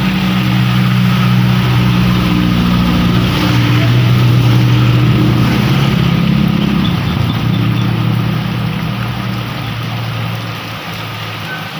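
A motor vehicle's engine running close by, loudest about halfway through and fading towards the end, over the steady hiss of heavy rain.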